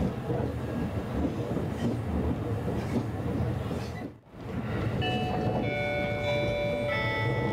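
Running noise inside an E257 series limited express car: a steady rumble of wheels on rail that dips briefly about four seconds in. In the last couple of seconds several steady high tones at different pitches come in over the rumble.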